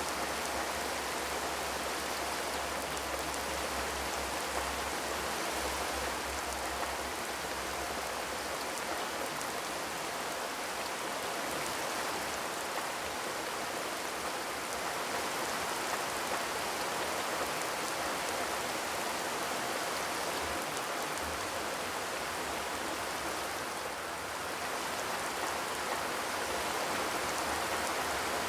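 Steady rain falling on a zinc roof, an even hiss of drops with no thunder.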